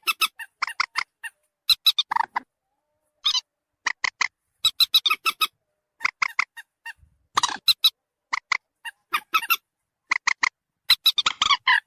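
Common moorhen (mandar batu) calls played as a bird lure: quick clusters of short, sharp notes, repeated with brief pauses between them.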